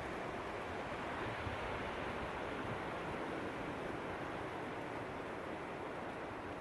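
Strong gusting wind blowing steadily, a dense rushing noise with wind buffeting the microphone.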